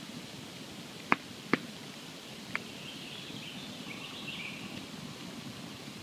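Wood campfire burning with a steady soft hiss, and three sharp crackling pops in the first half, the first two the loudest.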